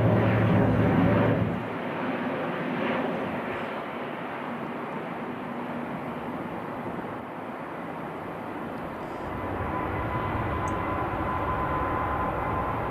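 ATR turboprop airliner's propellers droning with steady low tones, dropping away about a second and a half in to a steady broad rumble as it climbs off. Near the end a steady high whine from a jet airliner's engines comes in.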